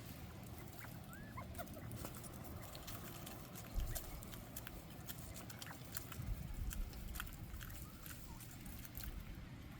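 Bobwhite quail pecking and crunching food, making many small sharp clicks, with a few soft short chirps about a second in. Under it runs a low wind rumble on the microphone, with gusts near four seconds and again around six to seven seconds in.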